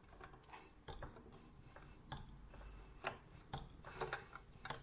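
Faint, irregular small clicks and taps of hands handling small objects at a work surface.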